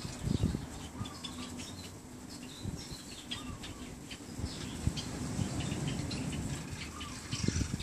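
Small birds chirping in the background over a steady outdoor hiss, with a few low thumps, the strongest about half a second in.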